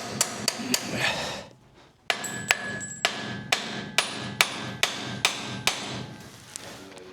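Hammer striking metal on a monster truck's rear axle while the axle shafts are being freed, in two runs of blows a few to the second, with a pause about a second in. Some blows leave a short metallic ring.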